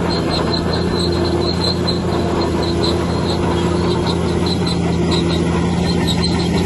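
Bulldozer diesel engine running steadily under load, with the crawler tracks squealing in a rhythmic high squeak about four times a second.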